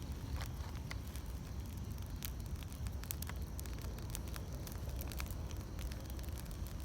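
Wood campfire burning: a low steady rumble of the flames with frequent irregular crackles and pops.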